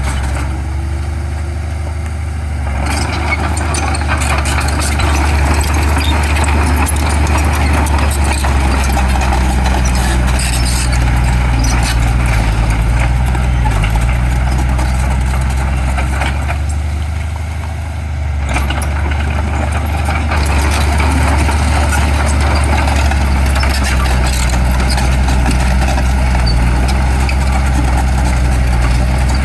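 Heavy diesel construction machinery running hard with a deep, steady engine note. It eases off twice, about two seconds in and again a little past halfway, then picks back up.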